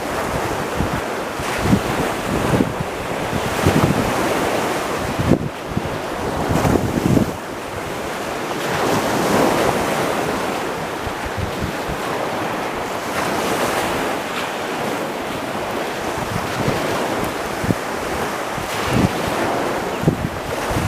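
Surf washing onto a beach in slow surges, with wind buffeting the microphone in repeated low gusts.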